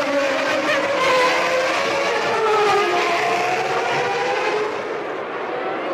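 Early-1990s Formula One race car engines running at high revs, their pitch rising and falling as the cars accelerate and slow.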